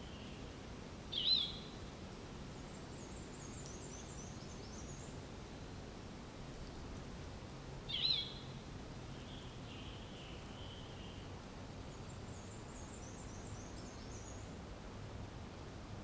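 Wild songbirds calling: a short, loud, sharply rising call twice, about seven seconds apart, each followed by a high, thin run of quick descending notes. A faint steady background rush lies underneath.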